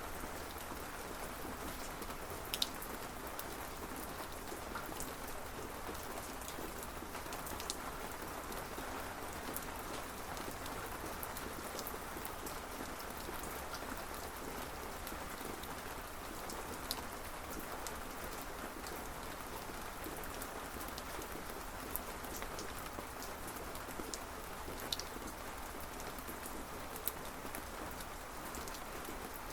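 Steady rainfall, an even hiss of rain with a few sharper single drop taps standing out here and there.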